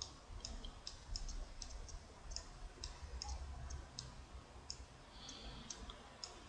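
Computer mouse buttons clicking irregularly, some in quick pairs, over a faint low hum.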